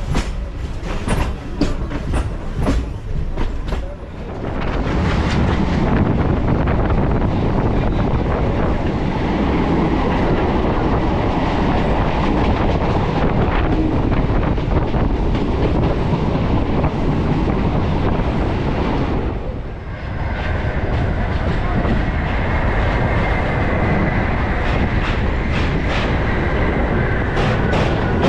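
Electric local train running on the line: wheels clacking rhythmically over rail joints for the first few seconds, then a steady loud rumble at speed. It dips briefly about two-thirds through, and a faint high steady whine or squeal sits over the rumble from then on.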